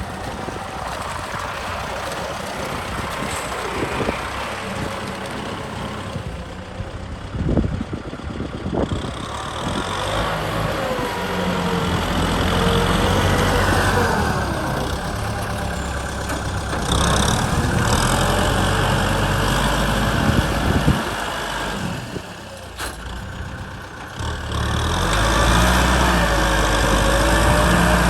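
Kubota M6040 tractor's diesel engine running, its loudness rising and falling as it works, with a wavering higher whine at times.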